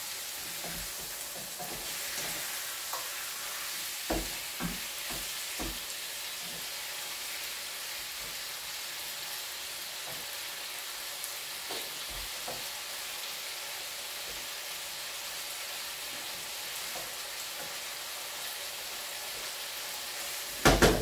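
Chicken pieces sizzling steadily as they fry in a frying pan, stirred with a wooden spatula that knocks against the pan now and then, with a louder clatter near the end.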